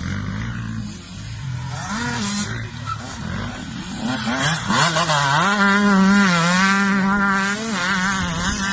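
Motocross dirt bike engine revving, its pitch rising and falling, then held at high revs with a wavering pitch from about halfway through.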